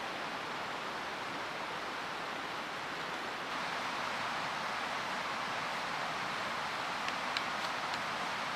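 Steady rushing of a mountain stream, a little louder from about three and a half seconds in, with a few small sharp clicks near the end.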